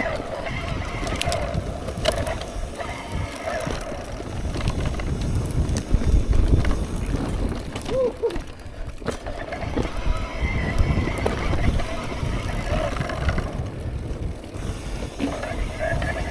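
Electric mountain bike ridden over a rough, slippery trail: a steady low rumble of tyres and movement with scattered short knocks and rattles, and faint voices in the background.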